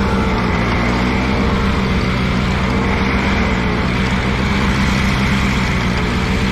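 Allis-Chalmers G tractor's small four-cylinder gasoline engine running steadily as the tractor backs up in reverse gear.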